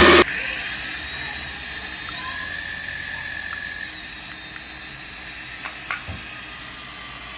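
Small electric motor of a remote-control toy whining at high speed. Its pitch steps up about two seconds in and drops back near four seconds, with a few light clicks later on.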